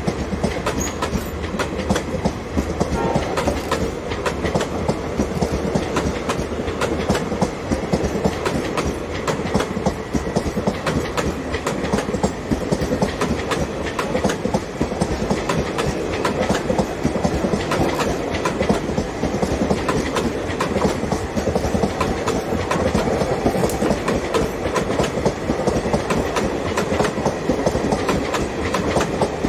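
Indian Railways passenger coaches rolling past close by, their wheels clattering over the rail joints in a dense, steady clickety-clack.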